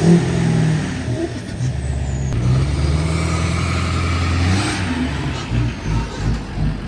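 Diesel engine running under load with a steady low note that rises and holds for a couple of seconds in the middle, then drops back and wavers. It comes from a vehicle stuck in mud and being pushed by a tractor.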